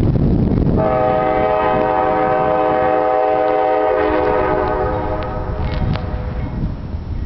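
Freight locomotive air horn sounding one long blast of about four seconds, a chord of several tones, starting about a second in. Under it and around it, the low rumble of the passing train with wind noise on the microphone.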